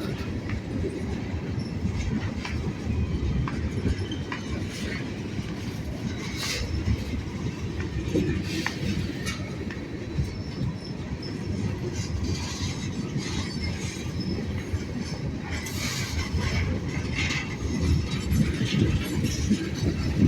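Freight train rolling past: a steady low rumble of the cars, with wheels clicking and clattering over the rail joints, busier toward the end.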